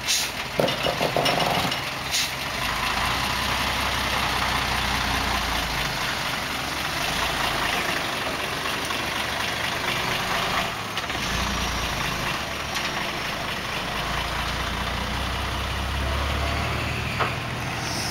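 Motorbike engine running on the move, with wind rushing over the microphone; the low engine note swells and drops back several times.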